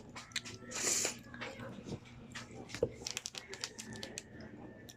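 Close-up chewing and biting of crunchy food, a string of small irregular crunches and clicks, with a brief hiss about a second in.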